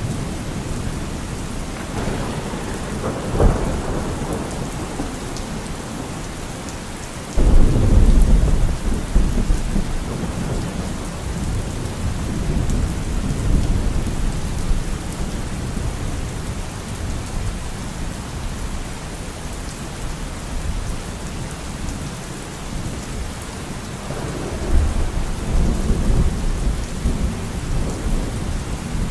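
Steady rainfall with rolling thunder. A rumble builds about two seconds in with a sharp crack near three and a half seconds. A louder clap breaks suddenly about seven seconds in and rumbles on for several seconds, and another rumble rolls in near the end.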